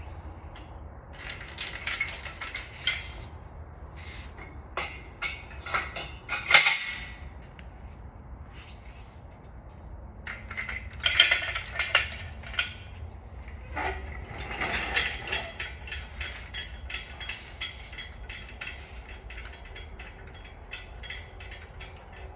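Metal tools and engine parts clinking and clanking in irregular bursts, with a few sharp knocks among them, over a steady low hum.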